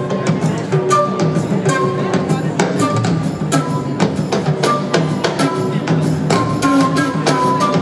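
Live blues-rock band jamming instrumentally: busy drums and hand percussion keep a steady rhythm under a bass line, with short melodic notes over the top.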